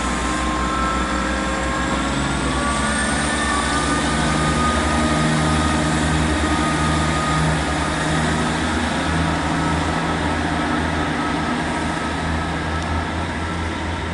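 Class 158 diesel multiple unit pulling into the platform, its underfloor diesel engines running with a steady low drone and thin, high squealing tones from the wheels.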